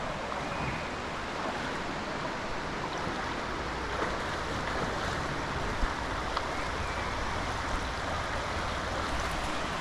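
Shallow river water flowing over rocks, a steady rush, with a few small knocks scattered through it.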